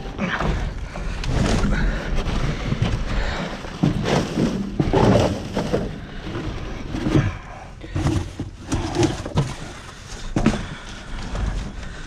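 Irregular thumps, knocks and clatter as a bulky item is wrestled and shifted around inside a dumpster.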